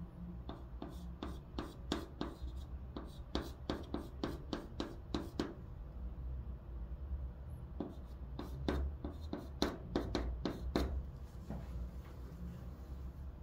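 Chalk writing Chinese characters on a blackboard: a quick run of short taps and scrapes, one per stroke, then a pause of about two seconds and a second run that stops a few seconds before the end.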